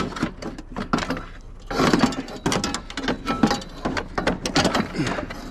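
Repeated knocks, clunks and clatter of scrap items being shifted and set down in place.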